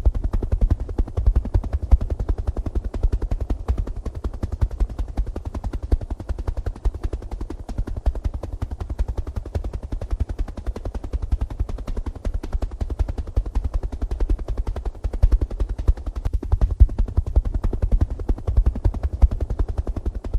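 Helicopter rotor blades chopping close up: a fast, steady train of low thuds.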